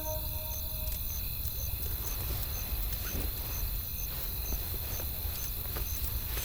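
Campfire crackling, with scattered sharp pops over a low rumble, and a short high chirp repeating about twice a second. The last note of a music phrase fades out in the first second.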